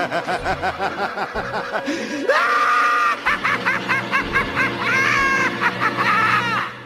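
A voice laughing in quick, repeated pulses that jump to shrill, high-pitched squealing laughter about two seconds in, then cut off suddenly at the end.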